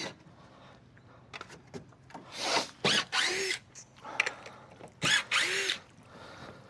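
Power drill driving screws into composite decking boards: two short runs of the motor, a couple of seconds apart, with a few light clicks and knocks between.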